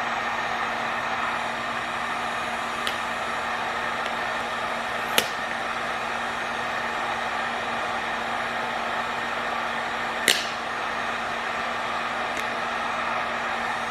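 Heat gun blowing steadily, a continuous hiss over a motor hum. A few short sharp clicks sound over it, the loudest about five and ten seconds in.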